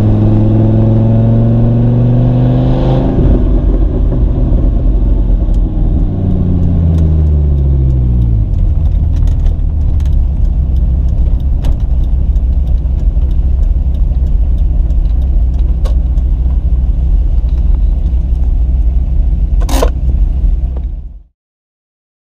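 Dodge Viper's V10 heard from inside the cabin: the revs climb for about three seconds, then fall over a few seconds and settle into a steady low-rev drone, with light clicking rattles throughout. The sound cuts off abruptly near the end.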